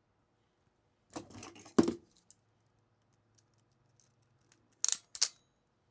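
Hand crimping tool closing a wire ferrule onto a stranded wire end: a scraping rustle about a second in, a few faint ticks, then two sharp metallic clicks close together near the end.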